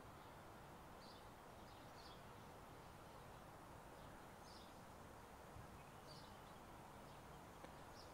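Faint small birds chirping, short high chirps every second or two over a low steady outdoor background.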